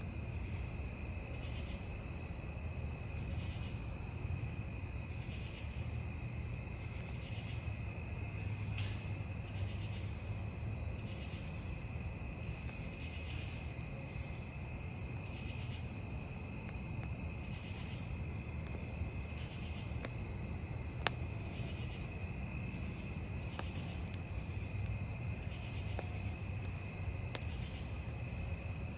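Crickets chirping over a crackling wood campfire: a steady high trill, with a second cricket pulsing about once a second. Beneath them runs the low rumble of the burning logs, broken by occasional sharp crackles, one of them louder about two-thirds of the way through.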